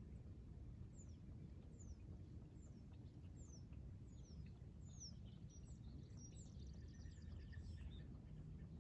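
A bird singing faintly: a run of short, high, falling whistles, a little faster as they go, then a quicker jumble of chirps, over a low steady outdoor rumble.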